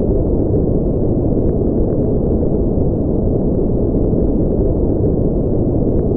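Continuous synthetic white-noise sleep track, heard as a steady, deep, muffled rush with no high end.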